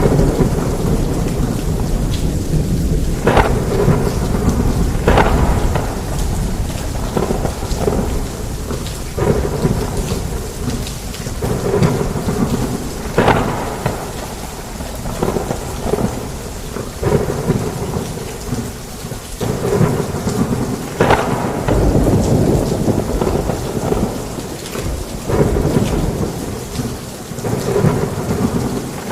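Heavy rain pouring onto a roof, with thunder rumbling deep and continuous underneath. Sudden sharp hits stand out every few seconds.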